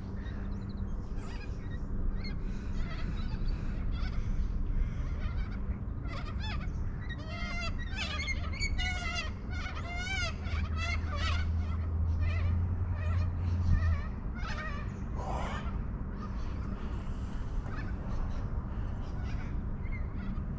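Birds calling, a run of quick repeated calls that is busiest about seven to twelve seconds in, over a low steady hum that stops about fourteen seconds in.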